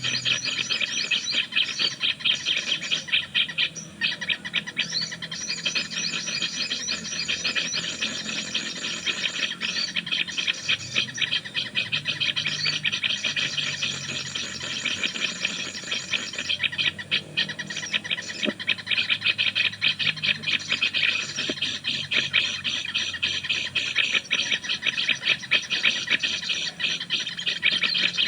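Birds chattering in a fast, continuous stream of rapid chirps that keeps up without a break.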